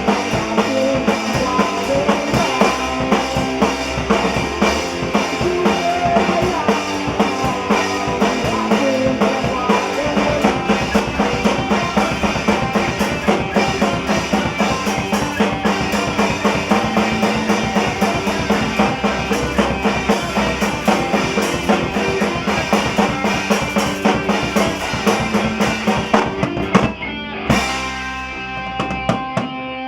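Rock band playing live, with drum kit, bass and electric guitars. The drums stop about 27 seconds in and a final guitar chord rings out.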